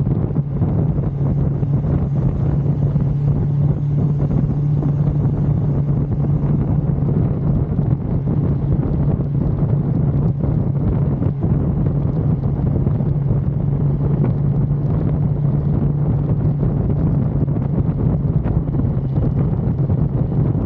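1982 Suzuki GS550L's air-cooled inline-four engine running at a steady cruising speed, with wind buffeting the microphone.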